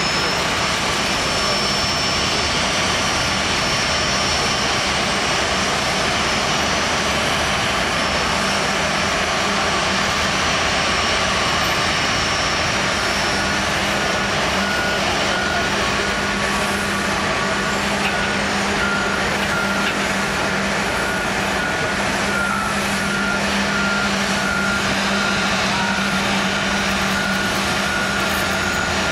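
Steady jet noise from an Airbus A350-941 during pushback, with a high steady whine over it. About halfway through, a pushback tug's reversing beeper starts, beeping in an even rhythm.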